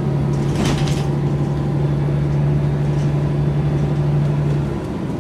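Mercedes-Benz O405 N² city bus driving, heard from inside: the diesel engine drones steadily under load, then drops away near the end as the throttle eases off. A short sharp noise comes about a second in.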